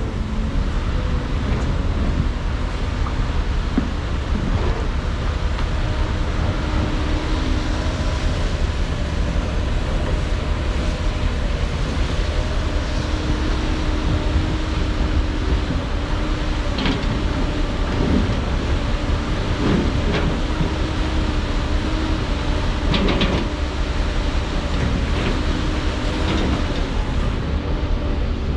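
Diesel engine of heavy earthmoving machinery running steadily under load, with scattered metallic clanks and scrapes, mostly in the second half.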